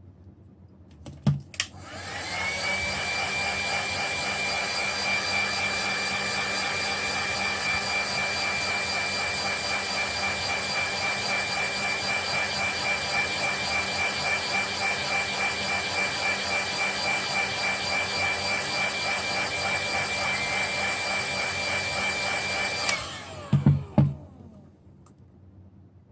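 Small electric blower or pump motor switched on with a click. It speeds up with a rising whine and runs steadily for about twenty seconds, then is switched off with clicks and winds down.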